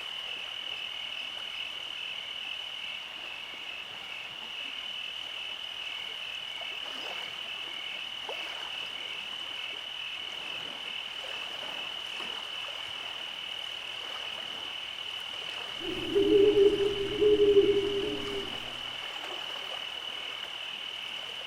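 Night chorus of insects, a steady high pulsing trill, with a frog croaking loudly in two close runs for about three seconds near the end.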